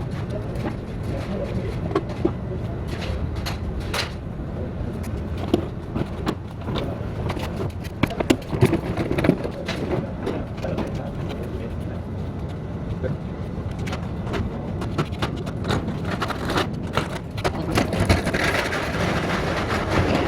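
Steady low rumble of street traffic with scattered sharp knocks and clicks, and a hiss rising near the end.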